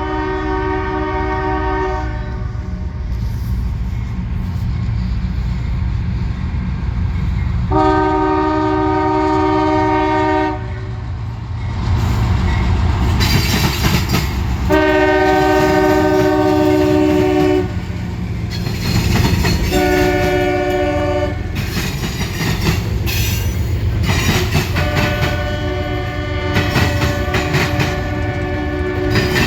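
Locomotive multi-chime air horn sounding the grade-crossing signal (long, long, short, long) after a brief opening blast, over the steady rumble and clickety-clack of a train passing on the rails.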